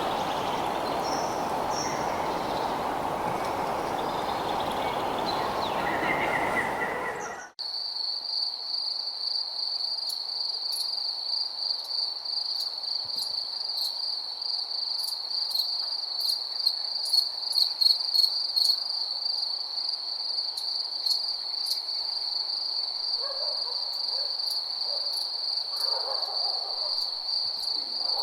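Night nature ambience. A steady hiss-like background with scattered chirps cuts off abruptly about seven seconds in. A steady high cricket trill with faint ticks follows and runs on.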